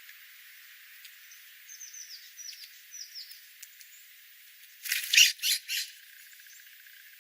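Wild birds calling: a quick run of short, high, falling chirps, then three loud harsh squawks about five seconds in.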